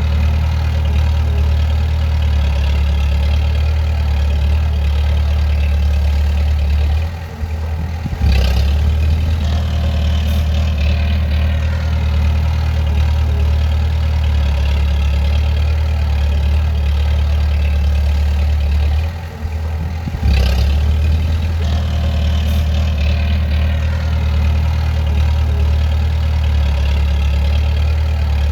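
Bulldozer's diesel engine running steadily under a low, even hum. Twice, about 7 and 19 seconds in, the engine sound drops for about a second, then comes back with a short surge.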